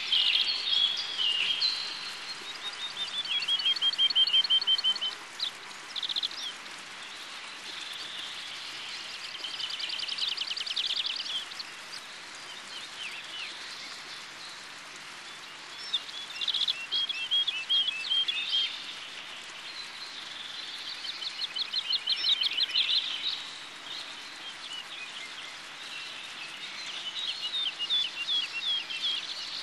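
Songbirds singing: short trilled and chirping phrases a few seconds long, repeated over and over with pauses between them.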